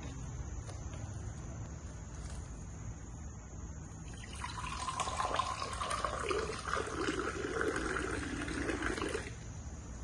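Water being poured into a container, starting about four seconds in and stopping abruptly near the end, with ringing tones from the filling vessel over the splashing.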